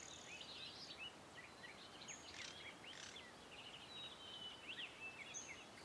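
Faint birdsong: scattered short chirps and whistles of small birds over quiet outdoor background.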